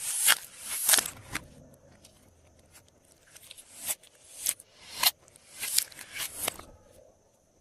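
Glossy slime being worked by hand, giving sharp sticky crackles and pops as it is stretched and pressed: a cluster in the first second, a quieter stretch, then a run of pops from about four seconds in.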